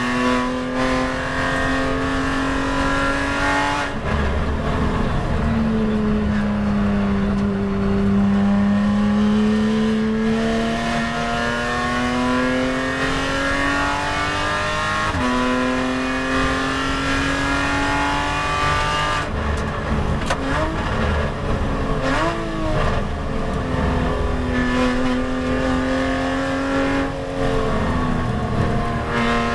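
Porsche 911 GT race car's flat-six engine at full throttle on track, its pitch climbing steadily through the gears with sudden drops at upshifts about 4 and 15 seconds in. Around two-thirds of the way through it downshifts with quick throttle blips under braking, then pulls hard again.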